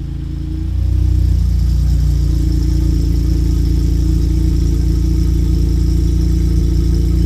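Honda Accord's J30A4 3.0-litre V6 idling just after a cold start. The sound steps up about a second in, then holds steady.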